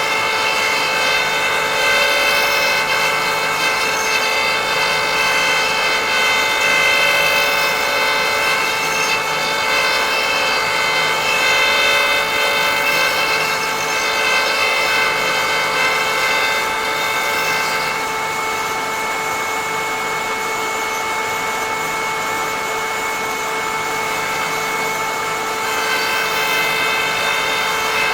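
Electric power tool on a woodturning threading jig running with a steady whine while cutting threads into wood. The higher part of the sound drops away about two-thirds of the way through and comes back near the end.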